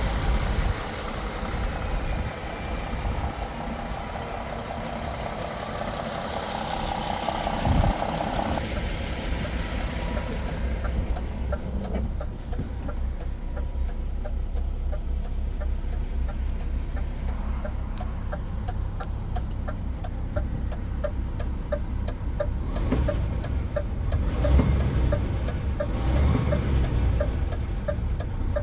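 DAF XF 480's PACCAR MX-13 straight-six diesel engine idling steadily, with a fine, regular ticking over the low running sound. A single knock sounds about eight seconds in, and the sound turns duller soon after.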